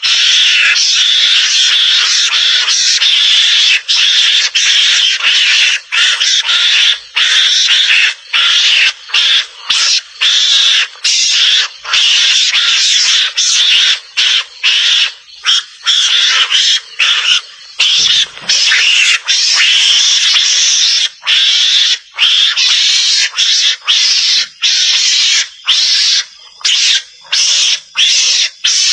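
Recorded mongoose (garangan) calls used as a hunting lure: harsh, hissy chattering in long runs broken by many brief pauses.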